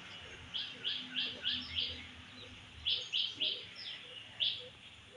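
A small bird chirping: short, high, downward-sliding chirps in quick runs of four or five, about a dozen in all.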